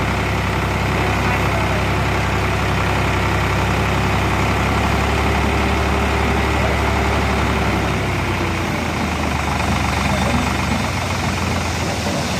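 Diesel tractor engine running steadily near idle; its low drone eases slightly about eight seconds in.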